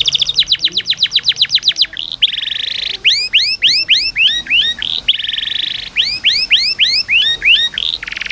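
Domestic canary singing loudly: fast rattling trills of repeated notes alternating with runs of quick rising chirps.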